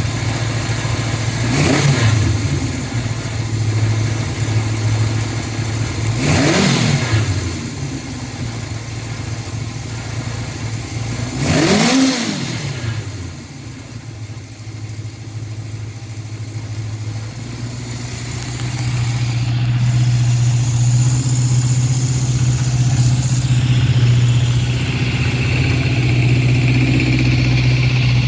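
Honda CB750 Four's air-cooled inline-four engine idling, blipped three times with the revs rising and falling back. In the second half it settles into a steadier, slightly faster, louder run.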